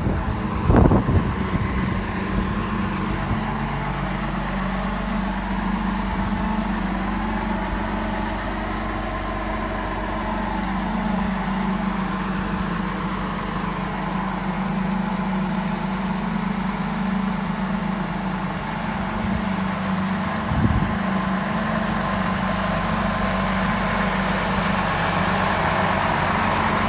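A vehicle engine idling steadily, with a short knock about a second in and another about twenty seconds in.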